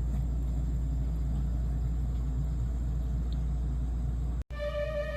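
A steady low rumble that cuts off suddenly near the end, where background music with held notes starts.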